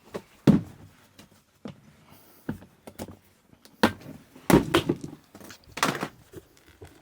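Several knocks and thuds of hard objects being moved and set down, the loudest cluster about four and a half to five seconds in, as something is found to catch the fuel filter's drips on.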